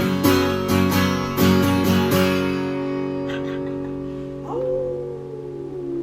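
Acoustic guitar strumming the closing chords of a song, the last chord left ringing and slowly fading. Over the dying chord a voice holds a note that slides downward.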